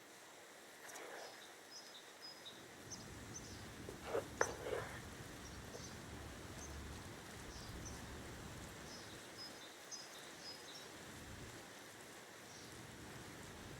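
Faint outdoor ambience with small birds chirping in short repeated calls. A brief clink or knock comes about four seconds in, followed by a low steady rumble.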